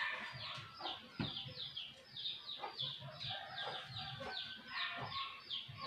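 Chickens calling in the background: a steady run of short, high falling chirps, about three or four a second, faint, with a few soft knocks.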